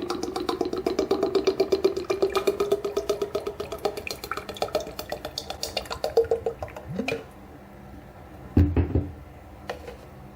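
Engine oil glugging out of a bottle as it is poured, a rapid run of gurgling pulses for about seven seconds. A single knock follows about two seconds later.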